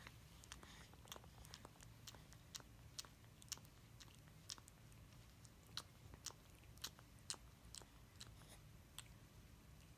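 Faint, irregular wet clicks, about one or two a second, of a cat licking its fur while grooming.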